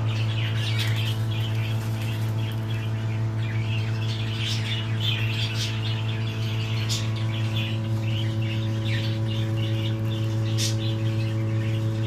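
Small cage birds chirping and twittering in short, irregular calls over a steady low hum.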